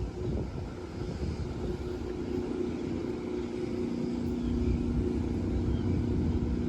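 An engine running steadily, its hum growing slightly louder, with wind buffeting the microphone.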